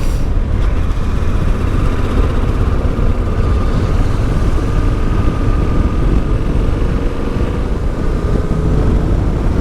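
Wind rushing over a helmet microphone, with the Yamaha Ténéré 700's parallel-twin engine and Akrapovic exhaust running underneath at a steady cruise, its note drifting only slightly in pitch.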